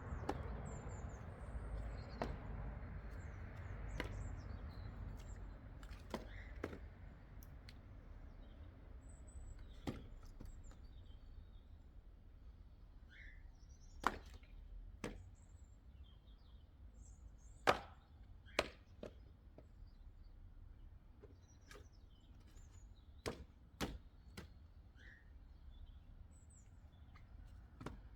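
An axe chopping wood: sharp single blows at irregular intervals a few seconds apart, the loudest about two-thirds of the way through, with faint bird chirps in between.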